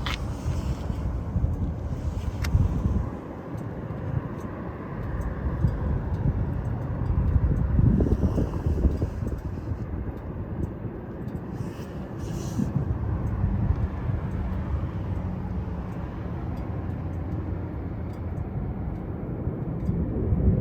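Harley-Davidson Heritage Classic's Milwaukee-Eight V-twin running through a Rinehart exhaust on the move. It drops back about three seconds in, builds to its loudest around eight seconds in, then runs steadily.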